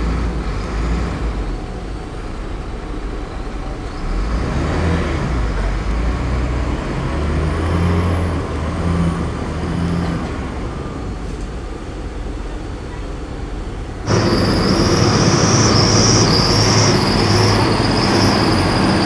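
Diesel engines of heavy earthmoving machinery running, the low rumble rising and falling. About 14 seconds in, the sound cuts abruptly to a louder stretch with a high, wavering squeal over the engine noise.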